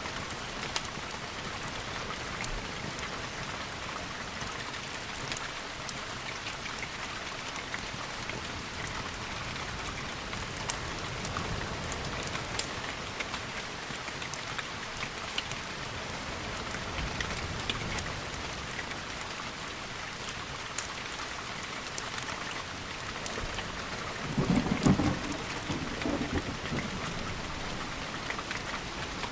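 Steady rain with scattered sharp drop ticks, and one short rumble of thunder about twenty-four seconds in.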